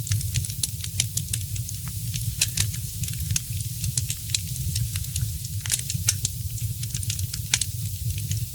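Fireplace fire crackling: sharp, irregular pops and snaps, several a second, over a steady low rumble of the flames and a soft hiss.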